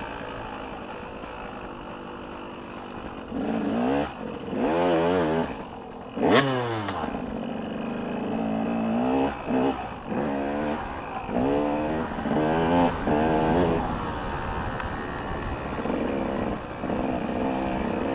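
Motocross dirt bikes revving hard, their engine pitch climbing and dropping again and again as the riders work the throttle and shift through the gears. About six seconds in, one bike goes by close, the loudest moment in the stretch.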